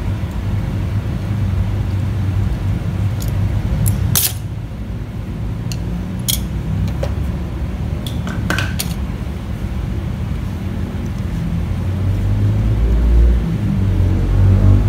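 A few sharp metallic clinks and taps, as of tools or parts knocking against metal, over a steady low rumble.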